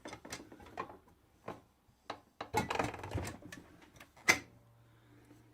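Scattered mechanical clicks and knocks from handling a walking-foot industrial sewing machine. A sharp click a little past four seconds in is followed by a faint steady hum.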